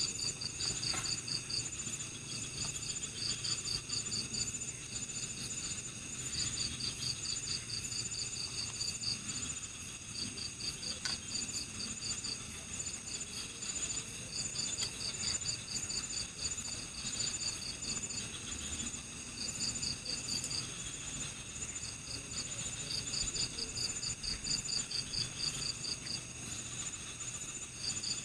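Night insect chorus: crickets chirping in trains of rapid high pulses that come and go every few seconds, over a steady, higher-pitched insect trill.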